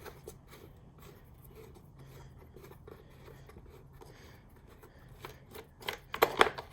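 Air filter housing on a Briggs & Stratton mower engine being opened by hand: quiet rubbing and handling with faint clicks, then a quick run of sharp clicks and knocks near the end.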